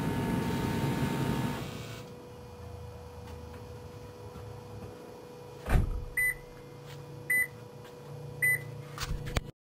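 Steady running noise from the 2013 Toyota Prius's engine bay, with the freshly replaced water pump in service, falls away about two seconds in. A thump follows near the middle, then three short high beeps about a second apart.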